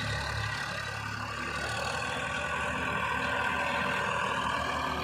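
Diesel tractor engine running steadily under load, with a steady engine hum and rumble.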